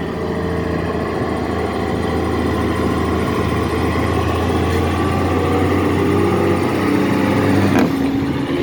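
Heavy truck's diesel engine pulling under load: a steady low drone that grows gradually louder, its pitch rising a little near the end.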